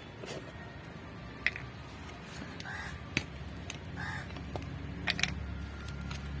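A crow cawing twice, about a second apart, with a few sharp clicks and knocks in between.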